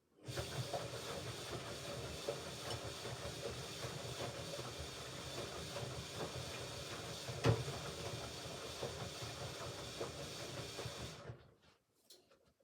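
Hoover Ecologic Computer Washer 1300 during its rinse programme: a steady rush of water with a faint hum and a few knocks, starting suddenly and cutting off sharply, then a few faint clicks near the end.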